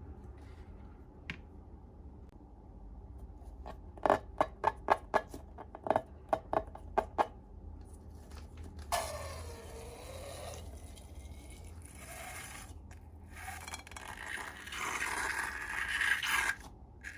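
Hands working slime materials: a quick run of about ten sharp snips or clicks, then a longer stretch of scraping that grows louder near the end.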